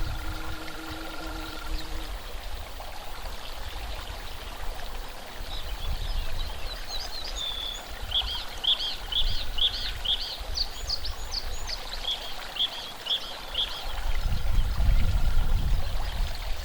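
Small birds chirping: two runs of quick, rapidly repeated high rising-and-falling notes in the middle, over a steady hiss. A low rumble comes in near the end.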